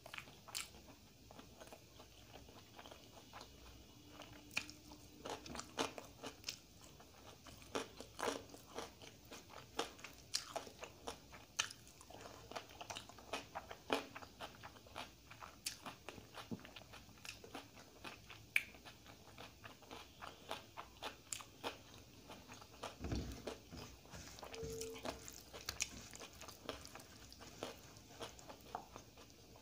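Close-miked eating: wet chewing with many sharp mouth clicks and crunches as a mouthful of rice, dal and egg fry is chewed. A single low thump comes about two-thirds of the way through.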